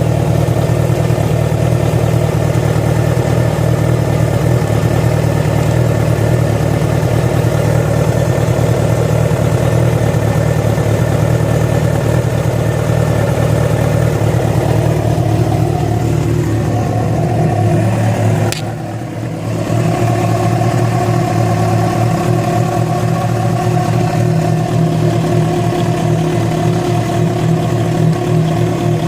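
Yamaha FZ6 inline-four engine running steadily with the strange noise that began after the bike was ridden on two cylinders because of a failed ignition coil connector. About two-thirds through, the engine note shifts, then a click and a brief drop in level, before it settles back to steady running.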